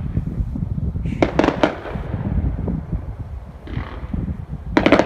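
Fireworks going off: a few sharp bangs about a second in and a tighter cluster of bangs near the end, over a steady low rumble.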